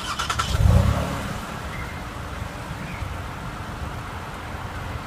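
2015 Toyota Highlander's 3.5-litre V6 starting up: the starter cranks briefly, the engine catches with a loud flare about half a second in, then settles to a steady idle.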